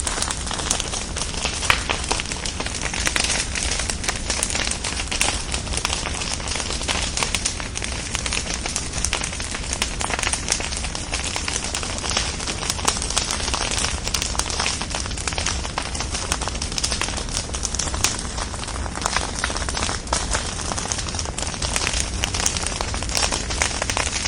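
Bonfire of burning logs crackling: a steady hiss crowded with irregular pops and snaps, over a low rumble.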